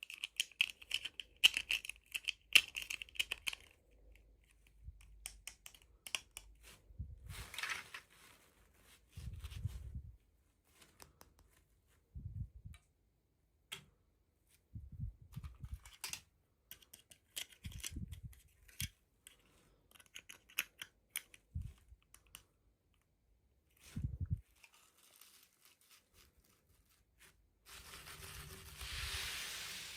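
Toy packaging being handled and opened by hand: plastic crinkling and tearing, with many small clicks and taps and a few dull thumps. A steady rustling hiss starts near the end.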